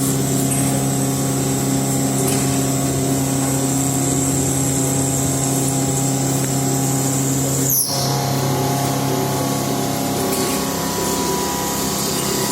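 CNC milling machine running steadily, a hum with a high whine over it, briefly broken by a short falling sweep about eight seconds in.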